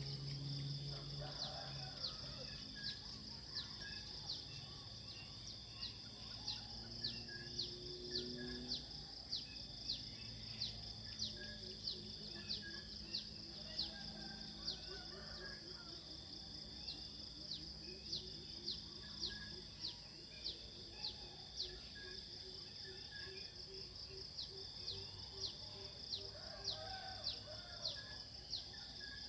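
Nature ambience of insects: a steady high-pitched insect drone with a sharp chirp repeating about once a second. A low rapid pulsing sound joins for several seconds in the middle.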